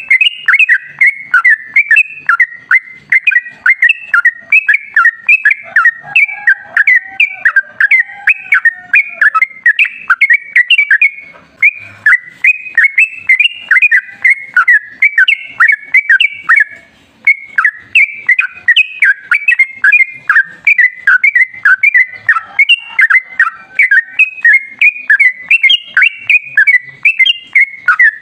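Yellow-vented bulbul (trucukan) singing a long, rapid run of quick chattering notes, broken only by two short pauses near the middle.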